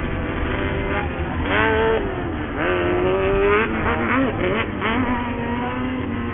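Off-road race buggy engines revving hard, their pitch climbing and dropping again and again as the buggies accelerate and shift, over a steady bed of engine noise.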